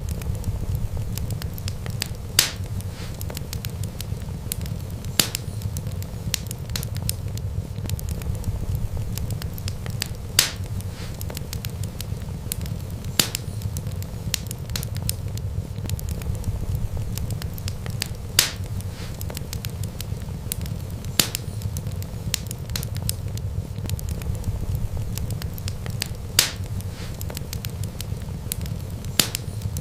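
Wood fire burning with a steady low rumble of flames and constant light crackling, with a sharp pop about every three seconds.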